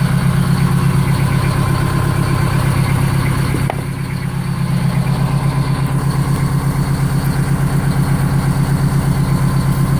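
Detroit Diesel 8V71 two-stroke V8 diesel in a 1961 Silver Eagle bus idling steadily with a fast even pulse, shortly after a cold start. Its loudness dips briefly a little under four seconds in, then recovers.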